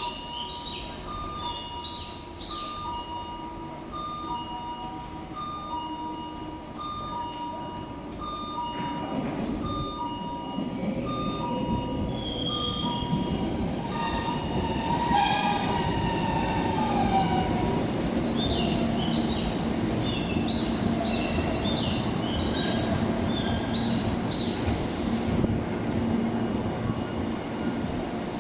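Tobu electric train pulling into the station platform: its rumble grows louder from about eight seconds in, with a brief wheel or brake squeal midway and a steady low hum once it has drawn in. Before it arrives, a two-note warning signal alternates over and over, then stops about halfway through.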